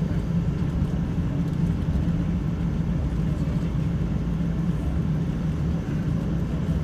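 Steady low rumble inside the cabin of a Boeing 777-200ER as the aircraft moves on the ground before takeoff, with a constant low hum over it.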